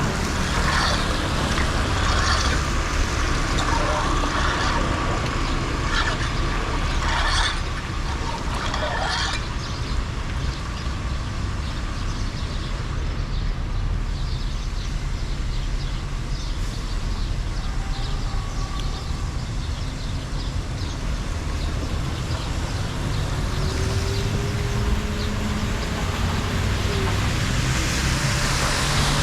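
Floodwater rushing steadily into a cleared storm drain, a continuous low roar, with splashes and knocks of debris being worked loose during the first nine seconds or so.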